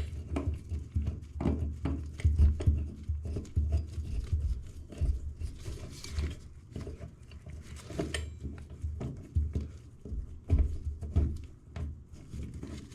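Irregular light knocks, clicks and handling noise of plumbing fittings and tools being worked by hand under a sink, with dull low thumps mixed in.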